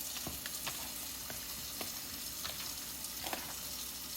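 Hands mixing and squeezing raw chicken tenders with salt in a bowl: irregular wet squelches and small clicks over a steady hiss.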